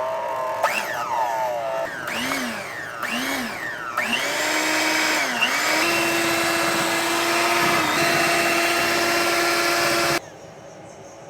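Electric motor whining, its speed swept up and down several times and then held high and steady for about four seconds before it cuts off suddenly near the end.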